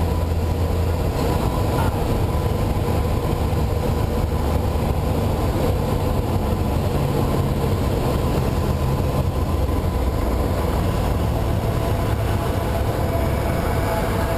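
Light aircraft's piston engine and propeller running steadily, a loud, even low drone with a noise haze over it.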